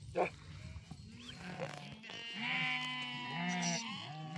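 A bleating farm animal: a short call just after the start, then a long drawn-out bleat from about halfway through.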